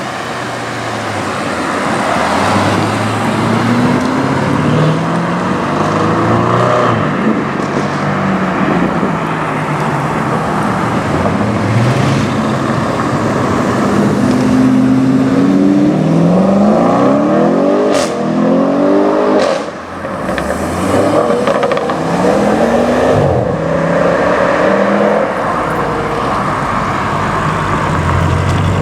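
Several Audi RS6 performance cars accelerating hard one after another, each engine note rising through the gears with breaks at the shifts. A little after the middle come a couple of sharp exhaust cracks.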